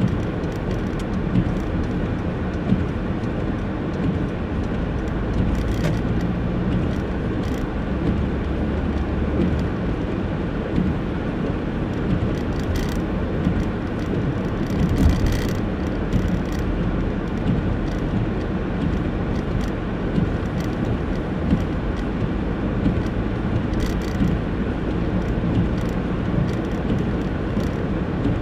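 Steady engine and tyre noise heard from inside a car driving slowly on a snow-covered road.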